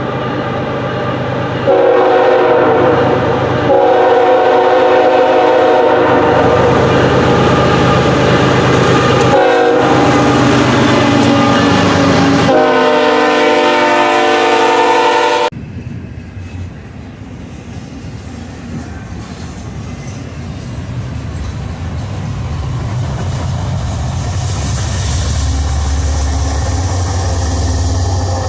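Locomotive air horn sounding a loud chord in several long blasts. It cuts off suddenly partway through, and a train's rumble with a low steady engine drone follows, slowly growing louder.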